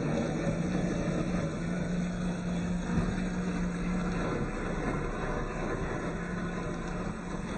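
Electric drive motor and gearbox of an RC4WD Chevy Blazer K5 scale truck whining steadily as it drives, easing off for a moment in the middle, with a single sharp knock about three seconds in.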